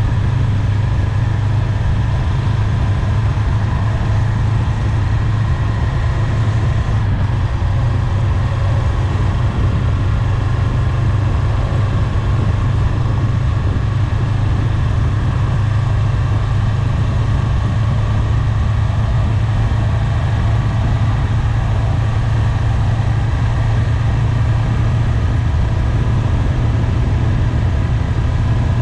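Honda 400X motorcycle's parallel-twin engine running at a steady, unchanging pitch, with a hiss of wind and road noise over it.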